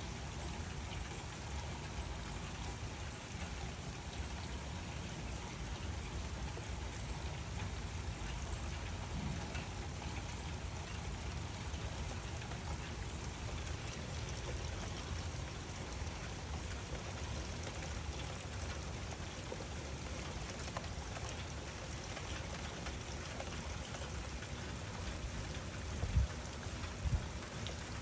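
Steady rainfall with a constant patter of drops, heaviest in the low end. Near the end there are two short, low thumps.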